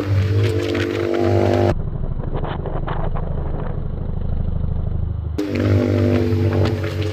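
Yamaha MT-15's single-cylinder engine running through an Austin Racing exhaust, a fast even pulsing exhaust note, heard for a few seconds in the middle. Before and after it there is a steady droning tone.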